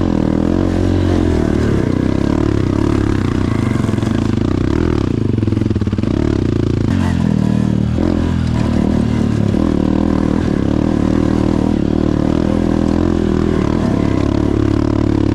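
Two-stroke dirt bike engine riding hard, its note climbing and dropping again and again as the throttle is opened and closed, with a dip in revs several times around the middle.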